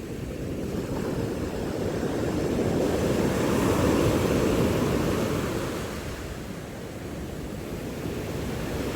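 Sea waves breaking and washing in on the shore. The surf swells to its loudest about four seconds in, then eases off.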